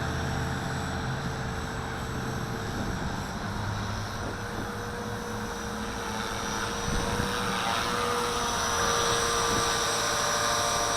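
Walkera V450D01 450-size electric RC helicopter in flight, its motor whining and its rotor whirring steadily, with the pitch drifting slightly as it holds a hover.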